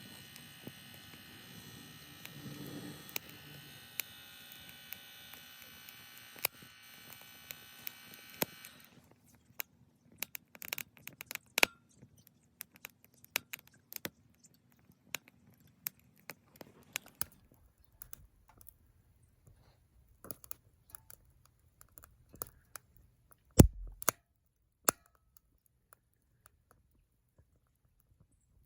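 Small electric blower fan of a Sierra wood-burning stove whining steadily, then switched off about nine seconds in. After that come scattered sharp clicks and taps, with one louder knock near the end.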